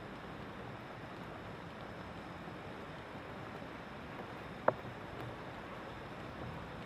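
Steady hiss of thunderstorm weather, wind and rain. One short, sharp tick comes about two-thirds of the way in.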